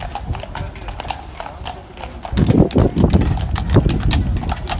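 Horse's hooves clip-clopping at a walk, a run of sharp, irregular knocks, with a louder, lower stretch of sound from about halfway through.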